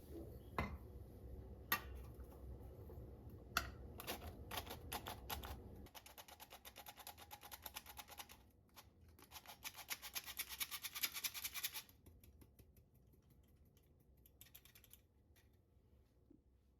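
Kitchen food preparation: a few scattered sharp clicks and knocks over a low hum, then about six seconds of rapid, even tapping strokes of a utensil with a brief pause in the middle. The hum stops as the tapping begins, and the tapping thins out to faint ticks near the end.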